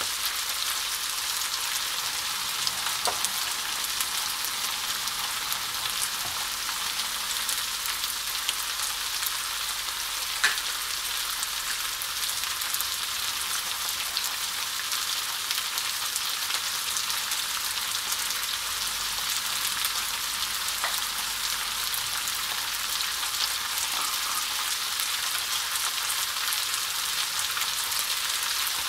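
Chicken pieces frying in oil in a nonstick pan: a steady sizzle with an occasional light tick.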